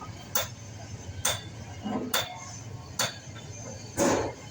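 Metal being struck with a hammer in steady, evenly paced blows, about one a second, each with a short metallic ring; the last blow, near the end, is the heaviest.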